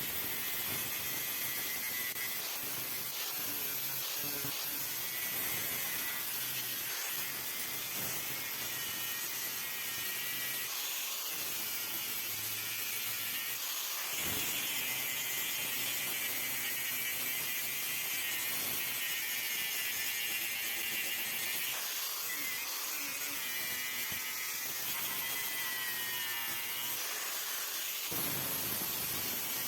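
A small electric power tool running steadily under load, its whine drifting up and down in pitch.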